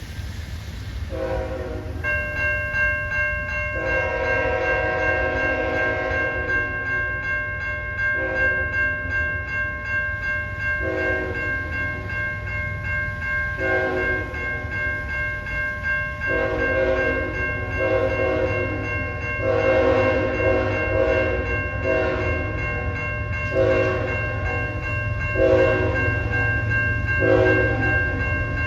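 Diesel locomotive horn sounding repeated blasts, some long and some short, coming closer together near the end, over the low rumble of the train. A grade crossing bell starts ringing about two seconds in and keeps ringing.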